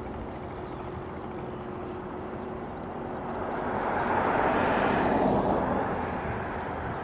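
Light aircraft passing close by: its engine and propeller noise swells to a peak around the middle, then fades away.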